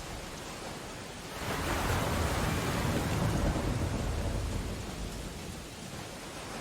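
Steady rain on window glass. About a second and a half in, a louder rushing swell rises over it, holds for a few seconds, then fades.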